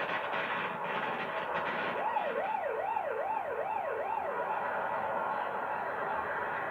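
Warbling alarm siren, its pitch sweeping up and down about twice a second, loudest a couple of seconds in and then fading, over a steady rushing noise.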